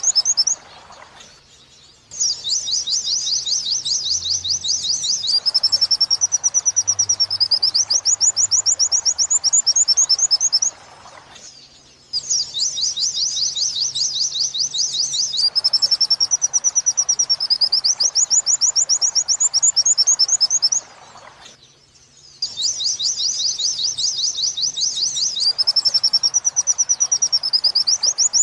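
White-eye (pleci) song in the 'wit-wit sambung kunti' style, played as a looped training recording. A fast, high, rapid-fire trill runs into a wavering warble and back into trills. The same phrase repeats three times, with a brief pause of about a second before each repeat.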